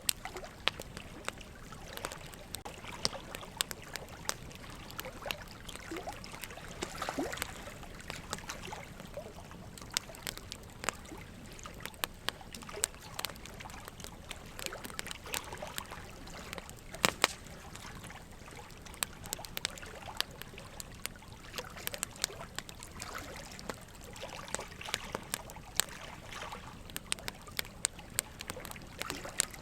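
Wood fire in a fire pit crackling steadily, with frequent irregular pops and snaps over a soft hiss, and one louder pop about halfway through.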